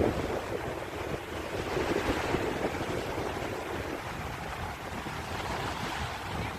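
Sea waves washing on the beach, with wind buffeting the microphone as a fluttering low rumble.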